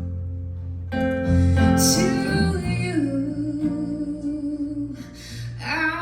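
A song played on acoustic guitar, with a voice coming in about a second in and singing long held notes over it.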